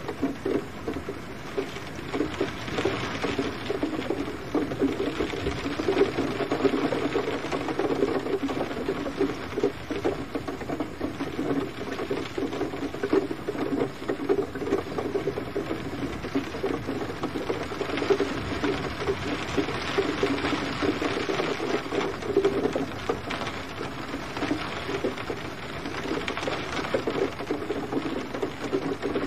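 Steady rain with dense pattering drops, the sound fullest in its lower middle range.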